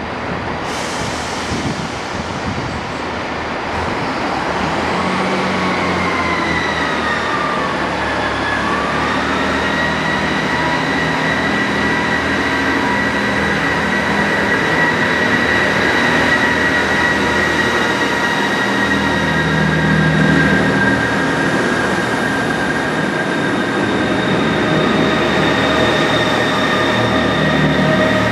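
Diesel passenger train running, with steady high-pitched whining tones over a rumble; the whine dips in pitch a few seconds in, then holds steady.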